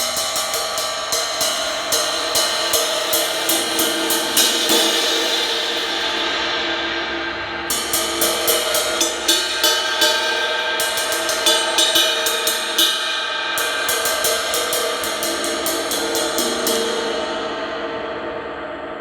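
Cracked 20-inch Zildjian A Custom Ping Ride cymbal played in runs of quick, even strikes with short breaks, each strike over a continuous ringing wash. The crack runs around the body of the cymbal; it still sounds not too bad, but with an unwanted crack in the tone.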